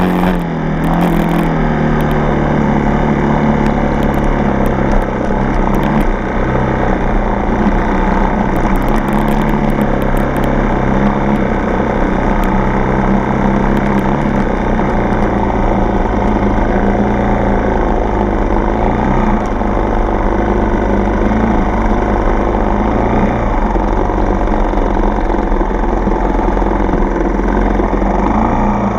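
Four-stroke single-cylinder dirt bike engine running continuously while riding a trail, its note rising and falling as the throttle changes.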